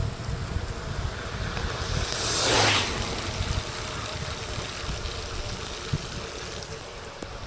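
Wind rumbling on the microphone and wet road noise during a mountain bike ride in the rain, with one swelling rush of wet hiss about two and a half seconds in that rises and fades within a second.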